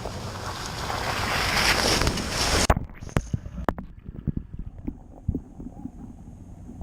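A loud rushing noise that swells over the first two and a half seconds and cuts off abruptly, followed by scattered light knocks and taps.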